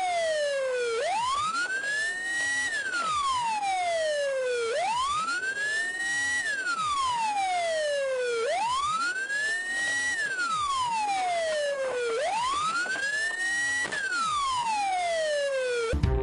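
Emergency vehicle siren in a slow wail. Each cycle sweeps up quickly and then falls slowly back down, about every four seconds, four times over.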